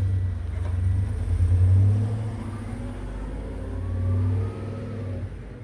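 A motor vehicle engine running with a deep, steady drone. It swells twice, then drops away shortly before the end.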